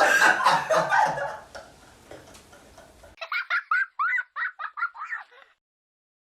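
People laughing hard in a small room, dying down after about a second and a half. After a sudden cut about three seconds in, a quick run of short high-pitched giggling yelps lasts about two seconds, then stops.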